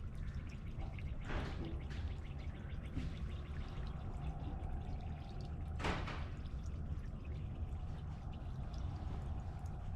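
Water from a garden hose pouring into a container as it fills, a steady running sound with a low rumble underneath.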